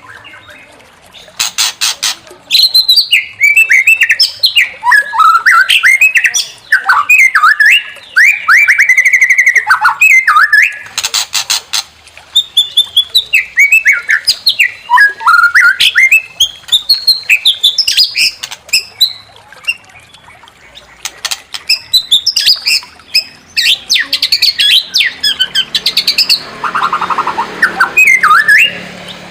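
White-rumped shama (murai batu) singing loud, varied phrases of quick whistles, trills and harsh rasping notes, in bursts separated by short pauses.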